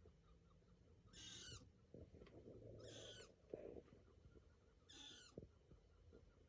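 A mouse squeaking: three short, high-pitched squeaks about two seconds apart, each lasting about half a second.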